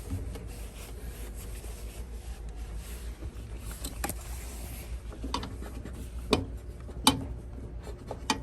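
Breath blown through a disconnected furnace condensate drain hose to check it for a clog, a faint steady hiss, followed by several sharp clicks and knocks as the plastic drain pipe and fittings are handled, over a low steady hum.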